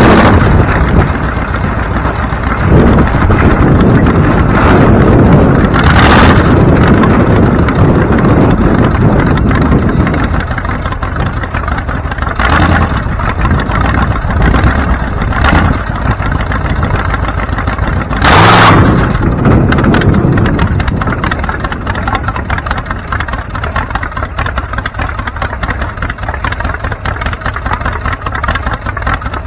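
Car on the move with steady road and engine noise, a few brief louder whooshes, and the noise easing off over the second half.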